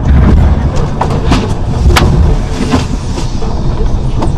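Loud vehicle rumble with a run of sharp knocks and bangs, the loudest about two seconds in.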